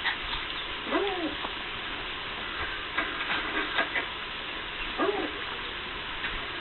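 Dog giving short whimpering yelps while playing, twice: about a second in and again about five seconds in, each rising and falling in pitch. A few light clicks and taps sound in between.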